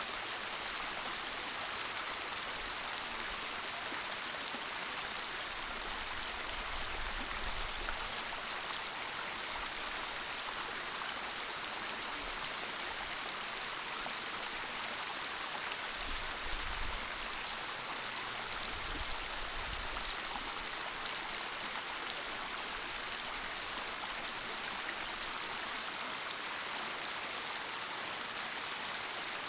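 Waterfall rushing as a steady, even roar of falling water, with a few brief low rumbles.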